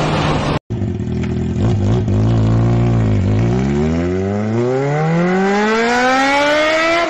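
A brief noisy stretch cuts off just over half a second in. Then a car engine runs: its pitch dips about three seconds in, then climbs smoothly and steadily as it accelerates, like a race-car sound effect.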